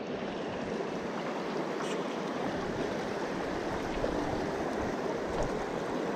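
Mountain stream rushing over rocks: a steady wash of flowing water.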